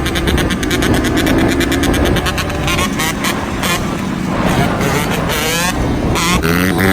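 Two-stroke dirt bike engine running and being revved, a rapid buzzing drone whose pitch climbs twice in the last two seconds.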